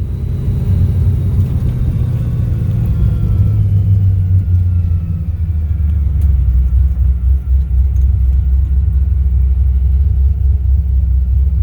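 Supercharged 6.0-litre LS V8 of a 1971 Formula Firebird running with a heavy low rumble, its pitch slowly falling over the first half and then holding a steady low drone as the car cruises.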